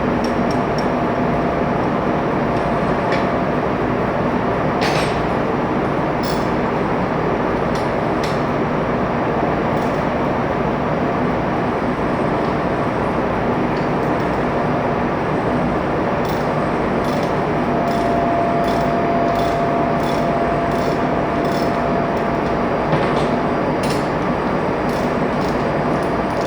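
Ship's engine-room machinery running with a loud, steady hum and rumble, with scattered sharp metallic clicks and ticks, more of them in the second half, and a steady whine that comes in about two-thirds of the way through.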